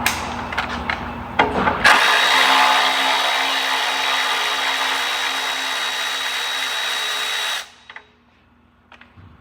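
A few sharp clicks of tool handling, then a cordless power tool running steadily for about six seconds with a high whine and cutting off suddenly, as a small bracket bolt on a Toyota Prius's ABS pump area is backed out.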